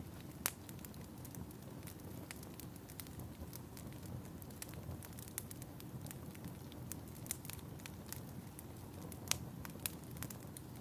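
Fire crackling in a fireplace: a steady low rushing of the flames with frequent sharp pops and snaps, the loudest about half a second in and again late on.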